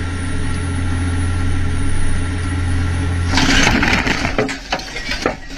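Steady vehicle engine and road drone, then a little over three seconds in a sudden loud crunching noise followed by several sharp knocks.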